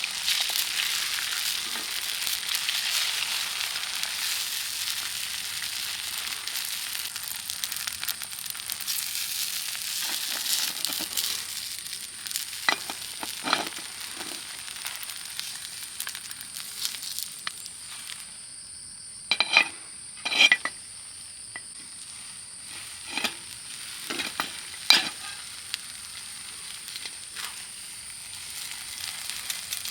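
Food sizzling in a hot pan or griddle, loudest in the first few seconds and then easing off. In the second half a utensil clinks sharply against the pan several times.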